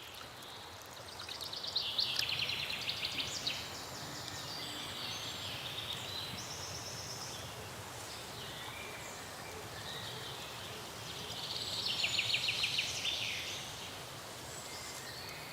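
A small bird sings two rapid trills, each about two seconds long and dropping slightly in pitch, with a few shorter high chirps between them, over a soft steady outdoor background.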